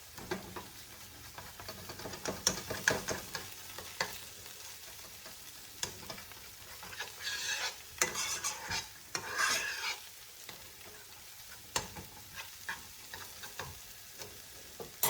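Butter-and-flour roux sizzling in a skillet while it is stirred, with irregular clicks and scrapes of the utensil against the pan and a few longer scraping strokes partway through.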